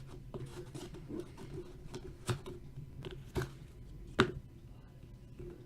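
Trading cards and packaging handled on a tabletop: light scratchy rustling with a few sharp taps, the loudest about four seconds in, over a steady low hum.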